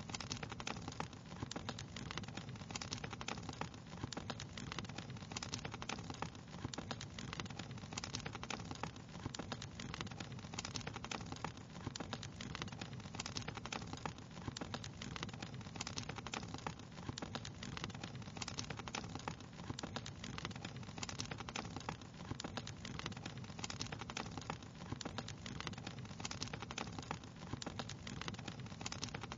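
Crackling fire: a dense, steady stream of small pops and crackles over a low, even rumble of flame.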